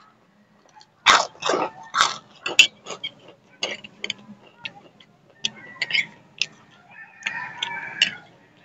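Close-miked eating sounds: loud crunchy chewing of fried pork rinds (chicharon) with noodles, a quick run of crunches about a second in, then smaller clicks and smacks. A wavering pitched sound is heard near the end.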